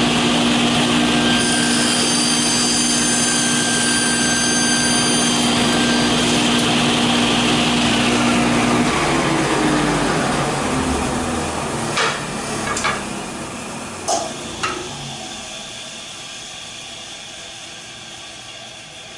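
Table saw running and crosscutting a board, the blade whining through the wood for the first several seconds. About nine seconds in the saw is switched off and coasts down, its hum falling in pitch and fading, with four sharp knocks near the end.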